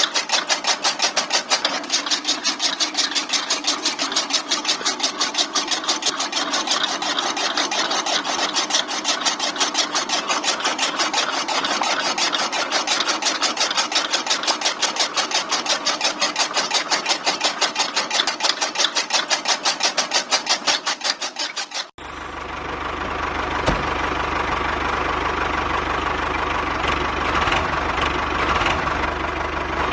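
Small electric motor driving a DIY model chaff cutter mechanism, running with a fast, even rhythmic clatter. About 22 seconds in it cuts abruptly to a steadier running sound with a low drone underneath.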